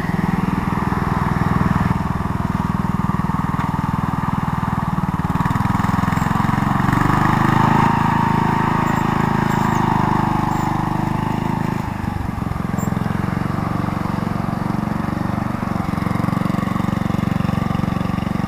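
Engine of a mower truck running steadily, rising slightly in pitch and loudness in the middle, with a brief dip about twelve seconds in.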